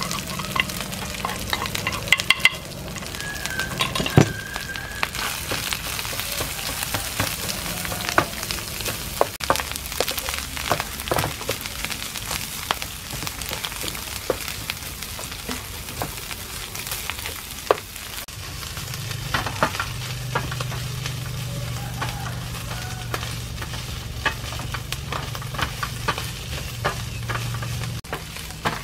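Eel pieces sizzling in hot oil in a nonstick frying pan while a wooden spatula stirs them, with frequent sharp clicks and scrapes of the spatula against the pan.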